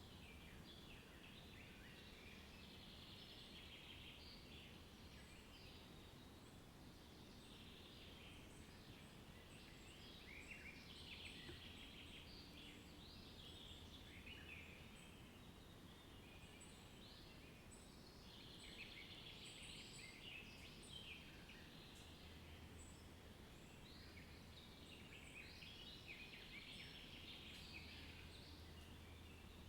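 Faint chorus of small songbirds, many overlapping chirps and trills, over a low steady hum.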